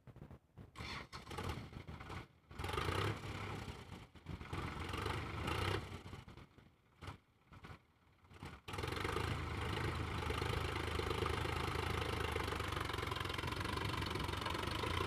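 Sonalika tractor's diesel engine running. For the first eight seconds or so it is heard in short broken stretches separated by near-silent gaps, then it runs steadily and louder from about nine seconds in.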